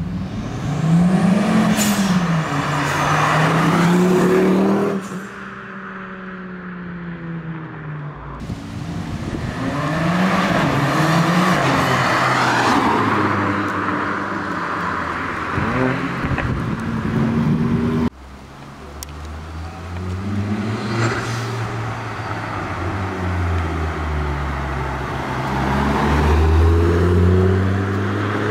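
Several cars accelerating away one after another, their engines revving up and dropping back with each gear change. The sound switches abruptly a few times from one car to the next.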